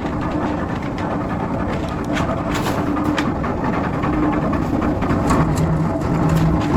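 Workshop machinery running steadily, with a low hum that drops in pitch about five seconds in, and scattered sharp knocks.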